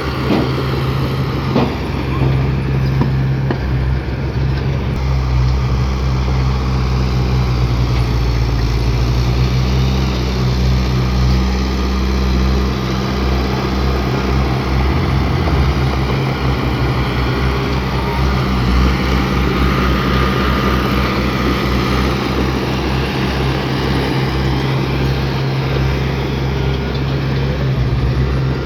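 Heavy diesel engine of earthmoving equipment running steadily with a low drone.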